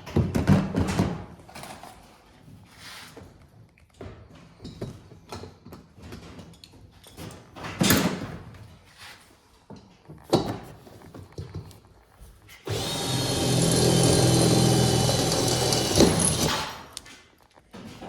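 Shop work sounds: scattered knocks and clatter of tools and metal parts, with a couple of sharper hits, then about thirteen seconds in a power tool starts and runs steadily for about five seconds before stopping.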